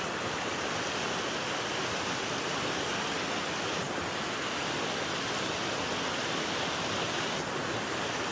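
River water rushing, a steady, even rush.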